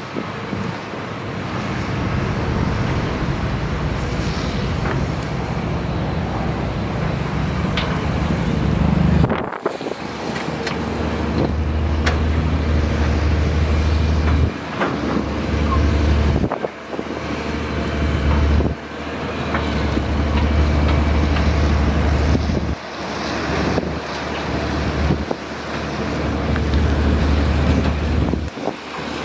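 Diesel engine of heavy earthmoving machinery, excavator or bulldozer, running with a steady low hum, with wind noise on the microphone. The sound breaks off suddenly and briefly several times.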